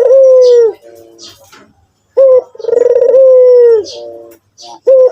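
White domestic ringneck dove (puter putih) cooing loudly in repeated phrases: each opens with a short note, then rolls into a trill that settles into a long, slightly falling held tone. One phrase ends about half a second in, a full phrase comes about two seconds in, and another begins near the end.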